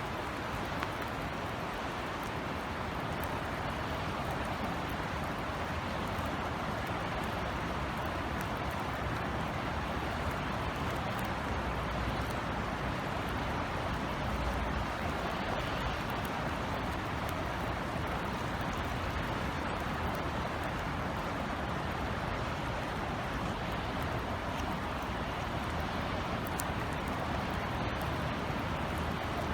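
Steady rain falling in a city, an even hiss with a low rumble underneath.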